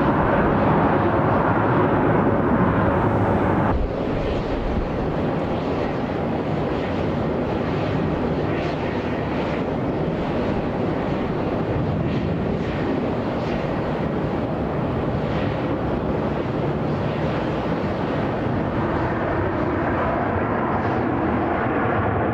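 Steady jet-engine noise of a twin-engine Delta Boeing 767-300ER heard from a distance on its takeoff run. A slightly louder stretch steps down abruptly about four seconds in, and the noise then runs on evenly.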